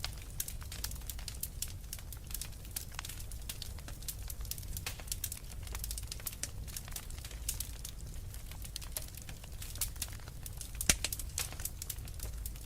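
Wood fire crackling: frequent small irregular pops and snaps over a low steady rumble, with one sharper pop near the end.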